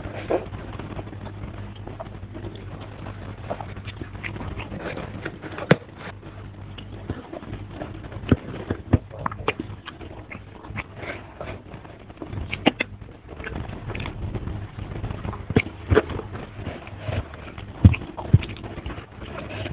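Close-miked mouth sounds of someone eating rice and fish with her hands: wet chewing with irregular sharp clicks and smacks, and fingers scraping food together on a wooden board.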